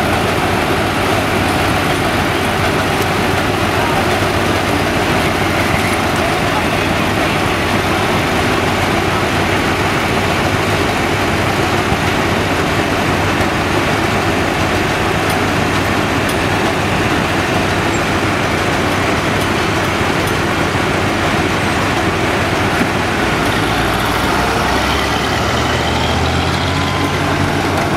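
Old farm tractor engines running steadily, with a lower engine note rising near the end.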